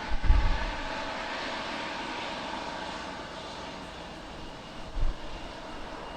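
Airliner engines at takeoff power on a departure from runway 27: a steady engine noise with whining tones that slowly fades as the aircraft moves away. Two short low thumps come near the start and about five seconds in.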